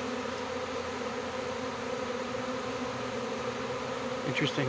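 Honey bee swarm buzzing, a steady, dense hum of many bees in the air around the hive.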